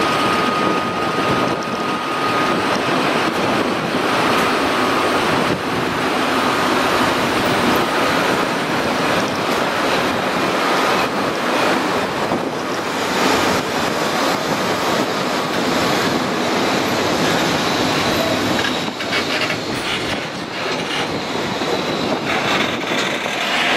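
JR Freight EF65 electric locomotive hauling a train of loaded container flat wagons slowly past, wheels clacking over the rail joints under a steady rumble. A thin high tone sounds for the first several seconds.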